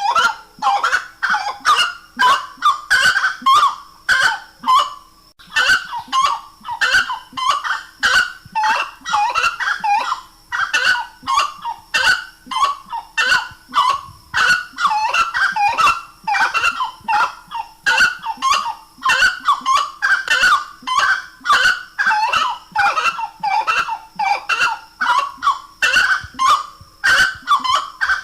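Grey-cowled wood rail (saracura-três-potes) calling loudly, an unbroken run of short, repeated honking notes at about two to three a second.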